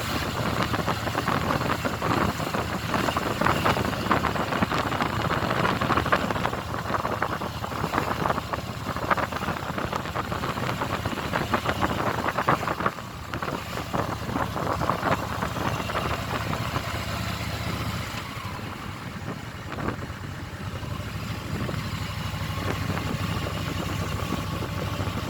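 Motorcycle engine running during a ride, steady with a dense rushing noise over it. It dips briefly about halfway through and runs quieter for a few seconds past the two-thirds mark.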